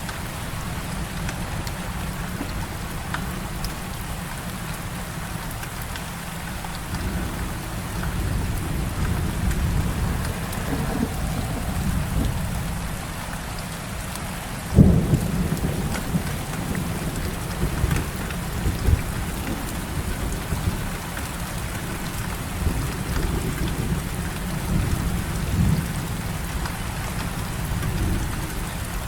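Heavy rain falling steadily, with thunder rumbling low underneath in swells and one sharp thunderclap about halfway through.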